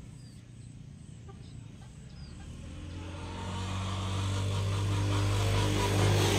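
A motor vehicle approaching, its engine hum growing steadily louder from about two and a half seconds in. Faint bird chirps are heard early on.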